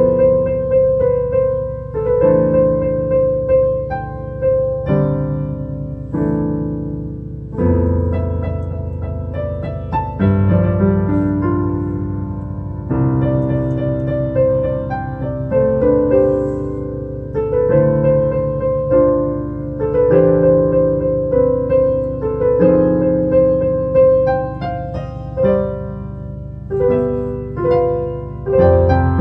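Slow, gentle solo piano music: a melody of held, fading notes over low chords, about one note or chord a second.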